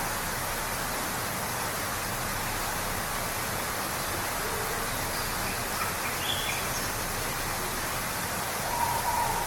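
Steady rush of a waterfall, with a few short bird calls above it, the clearest one near the end.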